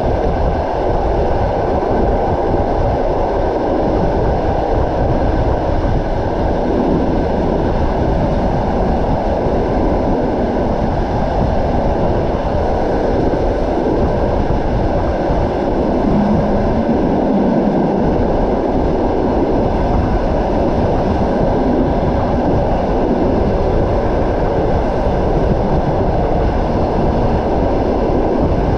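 Passenger train carriage running along the track: a steady rumble of the wheels on the rails.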